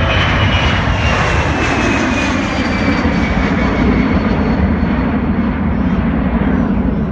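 Airplane flying past low and loud: steady engine roar with a thin whine that falls in pitch over the first few seconds as it goes by.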